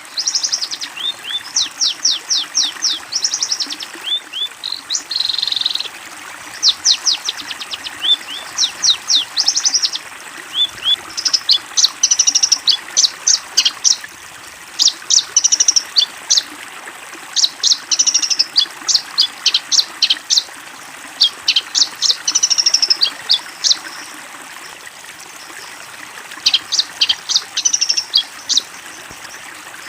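Long-tailed shrike (cendet) singing: fast runs of sharp, high, downward-sweeping chirps in bursts of a few seconds, broken by short pauses, over a steady background hiss.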